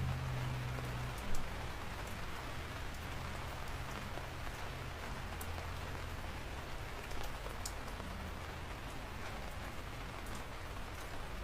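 Steady rain falling on a surface, with scattered sharp drop ticks standing out and a low steady rumble underneath. A short louder patter comes about a second in.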